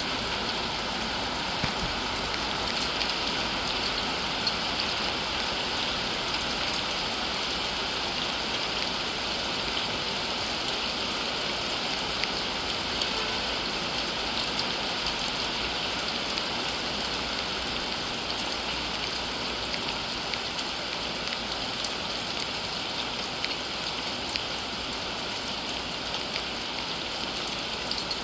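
Steady rain falling on a surface: a constant hiss with scattered small drop ticks.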